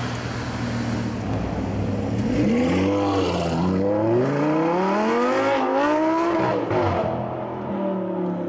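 Lamborghini Gallardo LP560-4's V10 with an Armytrix titanium X-pipe valvetronic exhaust, running steadily and then revving up: the pitch climbs about two seconds in, dips briefly, climbs again and drops back down near the end.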